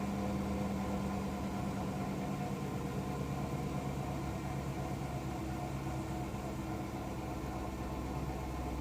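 2013 Dodge Durango R/T's 5.7-litre HEMI V8 idling steadily, its pitch settling slightly lower a couple of seconds in. The engine keeps stalling and only stays on when revved, a fault the owner traced to a bad fuel pump relay.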